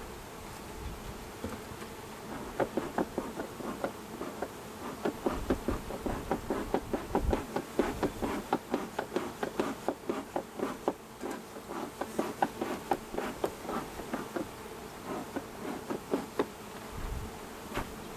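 A cloud of honeybees buzzing around an opened hive, a steady hum with many short buzzes close by, several a second, as the stirred-up bees fly about.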